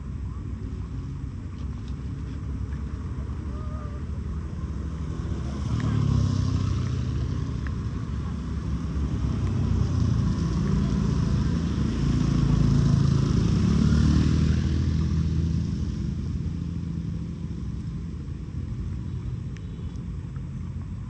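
A motor vehicle's engine passing, swelling in loudness from about six seconds in and fading again after about fifteen seconds, over a steady low background rumble.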